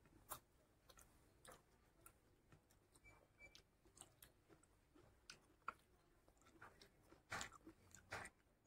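Faint chewing of a mouthful of rice and curry eaten by hand: soft, scattered mouth clicks, a little louder twice near the end.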